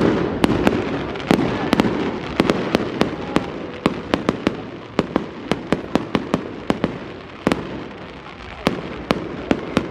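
Fireworks display: a rapid barrage of sharp bangs and crackling reports over a continuous rumble, thinning to a few scattered bangs near the end.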